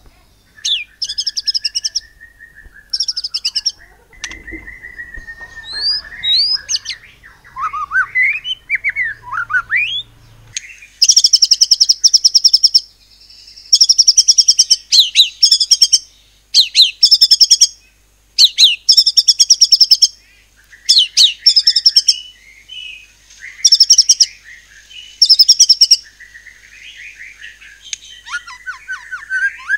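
White-rumped shama (murai batu) singing: varied whistled phrases and pitch glides at first, then from about ten seconds in a string of loud, high, rapid-fire trilled bursts, the 'nembak' shots, repeated every second or two with short sharp whistles between them.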